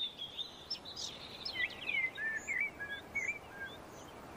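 Birds singing: a quick run of short chirps and whistled glides that falls silent near the end.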